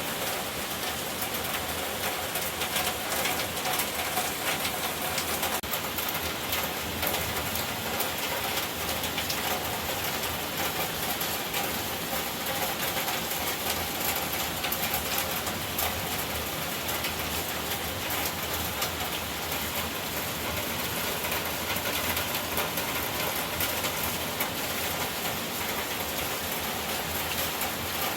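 Heavy rain pouring steadily, a dense patter of countless drops striking surfaces.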